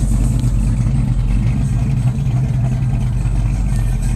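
Plymouth Duster 340's small-block V8 running steadily at low speed as the car rolls slowly past, a deep even rumble with no revving.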